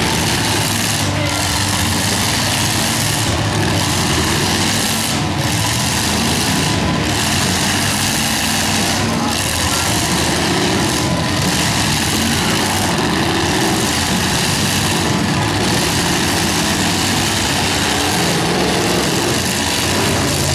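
Several demolition derby cars' engines running and revving together as the cars push and grind against each other in a steady, loud din.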